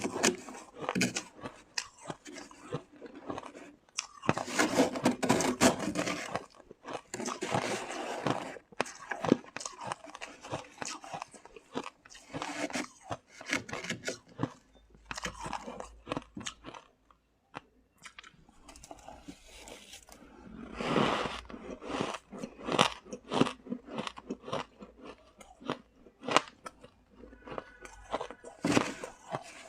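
Shaved ice being bitten and chewed close to the microphone, crunching and squeaking in bouts of bites with short pauses between.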